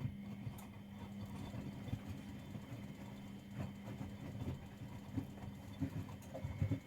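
Front-loading washing machine running: a steady motor hum with irregular soft knocks and thuds as the laundry tumbles in the drum.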